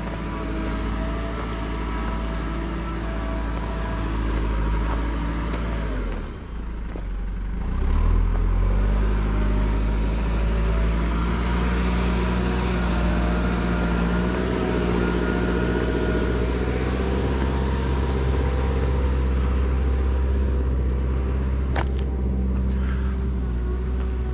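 Car engine running under way with road noise. It dips briefly about six seconds in, then runs louder and steady from about eight seconds on.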